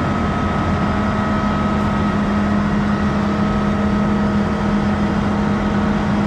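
Combine harvester running steadily: a loud, even machine noise with a constant hum.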